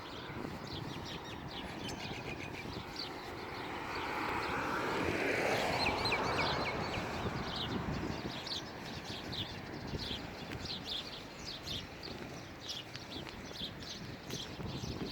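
Small birds chirping in many short, quick notes throughout. About four to eight seconds in, a louder swell of noise falls in pitch as it passes.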